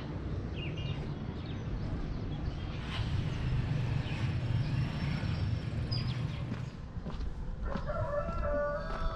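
A rooster crowing once near the end, over a steady low rumble.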